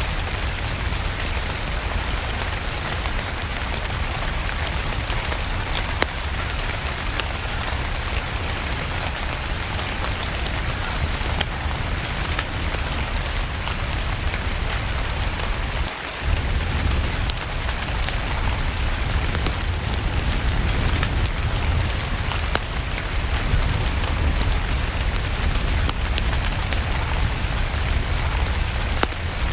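Steady rain with a low rumble underneath and scattered sharp ticks and crackles, as of a wood fire burning alongside. The sound drops out briefly about halfway through, then resumes slightly louder.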